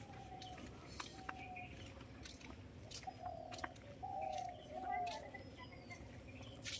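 Faint bird calls and short chirps, scattered and brief, with a few soft clicks.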